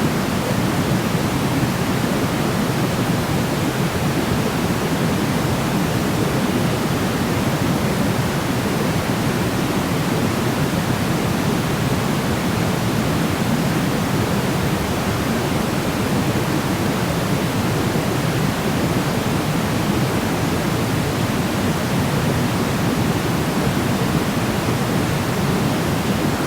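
Steady sleep noise: a constant, even hiss without breaks or changes, fuller in the low and middle range than in the highs.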